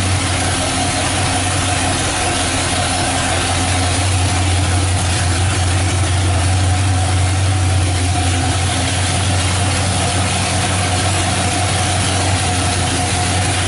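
355-cubic-inch small-block Chevrolet V8 with a hydraulic roller camshaft, idling steadily with no revving.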